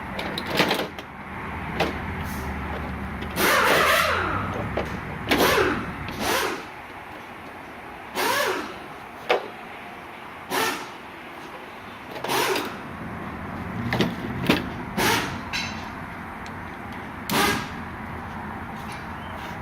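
Power tool run in about a dozen short bursts, several with a whir that rises and falls in pitch, over a steady workshop hum.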